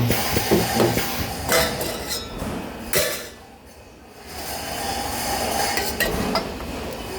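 Metal parts clinking and knocking against each other and against metal surfaces at a spot-welding station, with several sharp metallic knocks.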